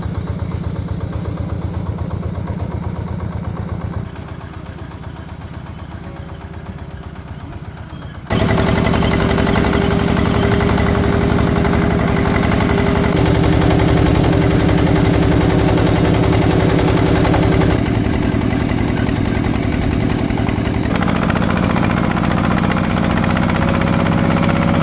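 Single-cylinder diesel engine of a walk-behind power tiller running steadily with an even, rapid beat. It becomes much louder about eight seconds in, and the pitch shifts slightly a few more times after that.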